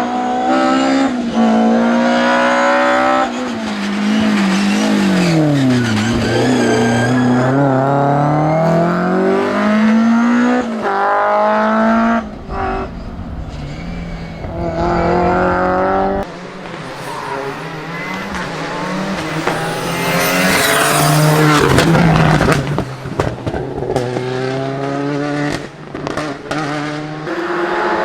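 Rally cars revving hard as they race past one after another: engine pitch climbs through the gears, falls away under braking and climbs again. There is a harsh noisy burst about twenty seconds in.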